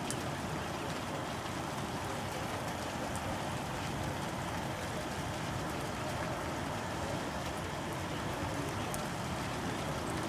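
Steady rushing roar of a tornado, sounding like a freight train, with a few faint ticks.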